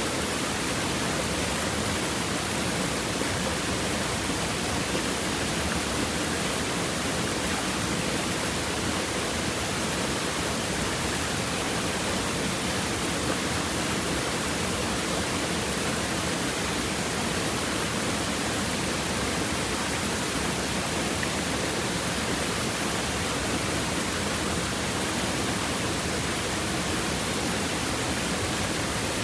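Stream water flowing and babbling over rocks, a steady, even rush of water with no breaks.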